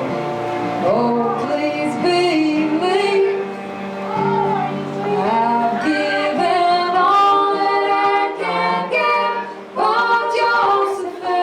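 A live folk string band playing, with women's voices singing a sustained, gliding melody over low held notes from the strings.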